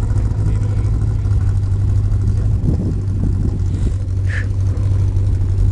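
Race cars running on a time-trial course, heard from a distance as a steady low drone with wind rumble on the microphone. A brief high squeak comes about four seconds in.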